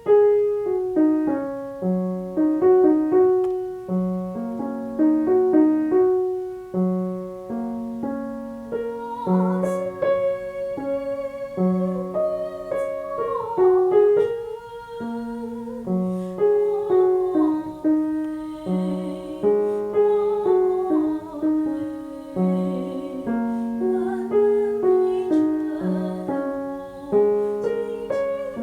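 Piano playing an accompaniment, note after note in a steady run, with a woman's singing voice with vibrato joining over it from about nine seconds in.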